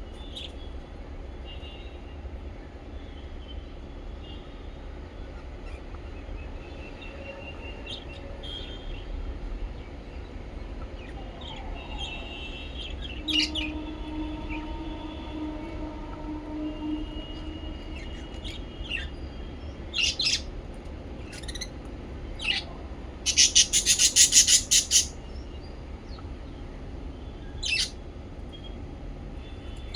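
Small pet parrots chirping: soft warbling chatter with sharp, shrill calls every few seconds and a fast run of loud calls about three-quarters of the way through, over a steady low hum.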